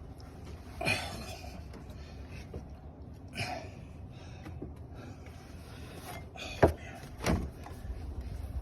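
A few separate knocks and clunks of tools and parts being handled in a car's engine bay, the sharpest and loudest about two-thirds of the way through.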